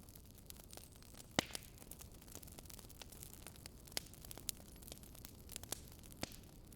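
Wood fire crackling: a low steady hiss with irregular sharp pops, the loudest about one and a half seconds in.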